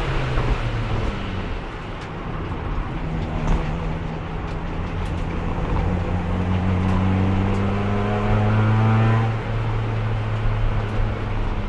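Race car engine heard from inside the cockpit, pulling in fourth gear, the only gear its failing transmission will hold: the pitch climbs slowly for several seconds, then falls away suddenly as the throttle is lifted about nine seconds in, over steady road and wind noise.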